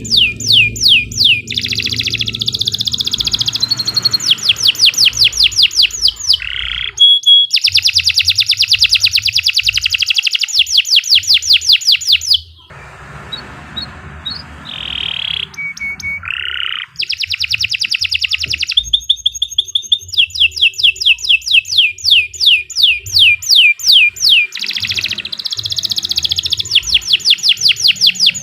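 Domestic canary singing a long, continuous song of fast trills and rapidly repeated high notes, with a quieter, softer passage about halfway through.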